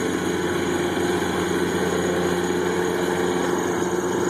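Riding lawnmower engine running steadily under mowing load.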